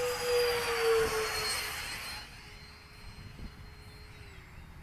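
Electric ducted-fan motor of a 70mm FMS F-4 Phantom RC jet making a fly-by: a loud rush of fan noise with a whine that dips in pitch as it passes, fading after about two seconds to a faint distant whine.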